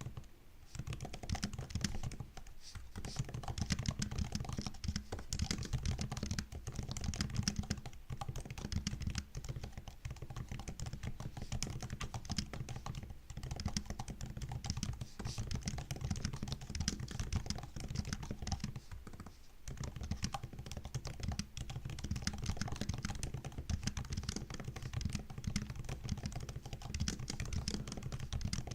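Typing on a MacBook laptop keyboard: fast, continuous soft key clicks and taps, with brief pauses now and then.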